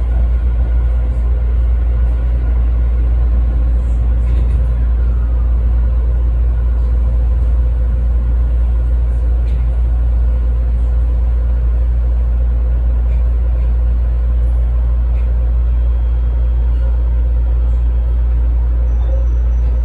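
Sanyo Electric Railway 5030 series electric train running, heard from inside: a steady, loud low rumble with no sudden events.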